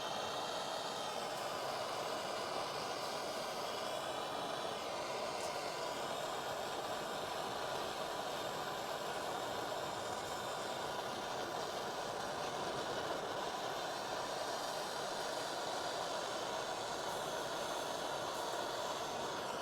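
Gas soldering torch burning with a steady hiss while heating a heater core's tank seam to flow solder.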